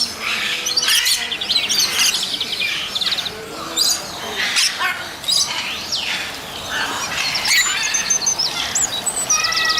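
Several small pet birds chirping and twittering continuously, a busy mix of short high chirps, quick trills and whistled notes.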